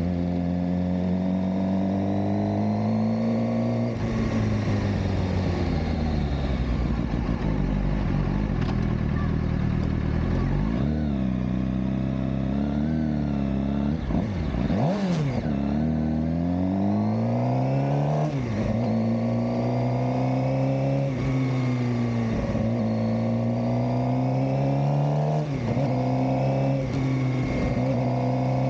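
Suzuki GSX-R600 K7 inline-four engine under way, its revs climbing and falling again and again as the throttle is worked through the gears. There is a quick drop and rise in pitch about halfway through.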